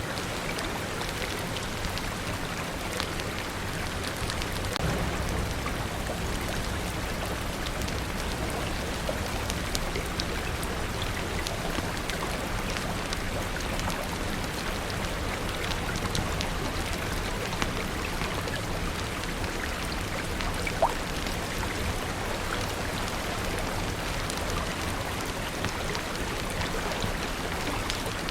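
Steady rain falling, with many scattered sharp drips and ticks over it. A low rumble swells briefly about five seconds in.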